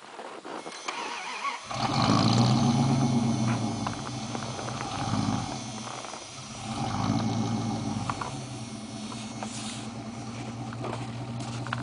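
The 1953 Ford F100's 337 Lincoln flathead V8 catching and starting a little under two seconds in. It runs fast at first, dips, picks up again, then settles to a steady idle.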